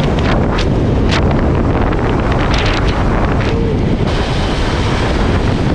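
Wind buffeting the microphone of a moving motorbike: a loud, steady low rumble with several short hissing surges in the first few seconds.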